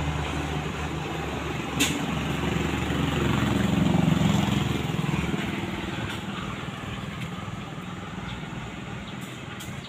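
Ballast hopper train hauled by a diesel locomotive rolling slowly past: a steady rumble of wagons on the rails. It swells about four seconds in and then fades as the train draws away. There is one sharp click a little before two seconds in.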